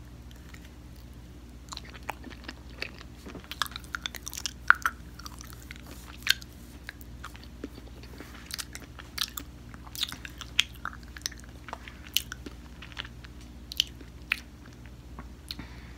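Close-miked chewing of a round chocolate candy: many sharp, irregular crunches and mouth clicks as it is bitten and chewed.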